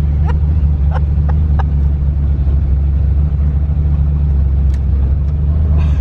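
Twin-turbo LS V8 in a Fox Body Mustang idling steadily with a deep, even drone; the crew puts a rough idle down to a vacuum leak from the unhooked wastegate line.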